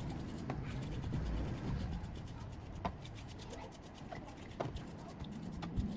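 Hand rubbing and scraping on a part during restoration work, a steady scratchy scrubbing with a few light clicks.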